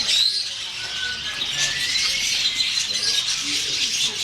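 Birds chirping, with a few short, thin whistles, some rising, about a second and two seconds in.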